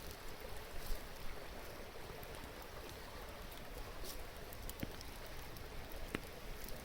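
Wood campfire crackling, with a few sharp pops, over the steady rush of a stream.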